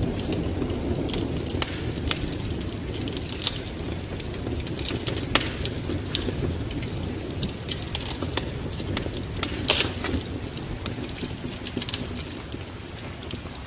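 Fireplace wood fire crackling, with frequent sharp irregular pops over a low steady rumble.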